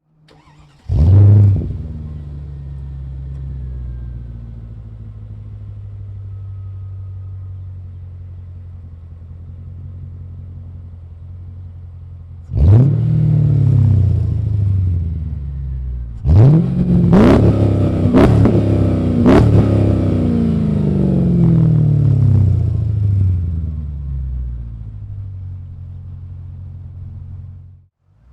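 Mercedes E55 AMG's 5.4-litre V8 through an X-pipe exhaust with resonator delete and Magnaflow muffler. It gives a sharp loud flare about a second in and settles to a steady idle. Then come one rev about halfway and a quick series of three or four revs, each rising and falling back, before it eases back to idle and cuts off abruptly near the end.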